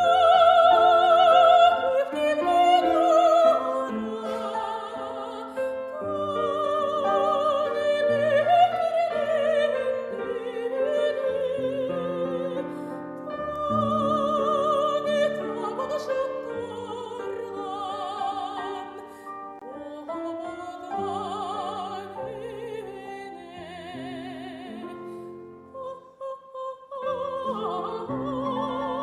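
Female operatic voice singing with wide vibrato, accompanied by piano.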